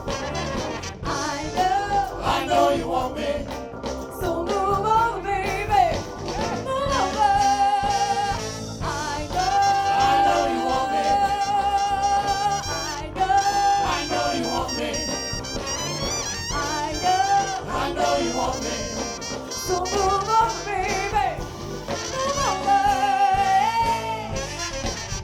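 Live soul band with a horn section playing a wordless stretch between sung lines, its lead line holding long notes that bend in pitch over the full band.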